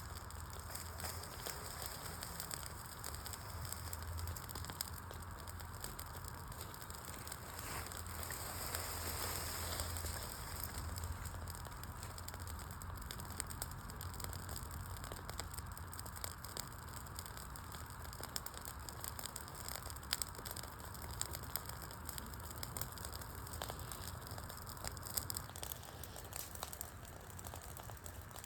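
Wood campfire burning: a steady hiss of flames with many small crackles from the logs and occasional louder pops.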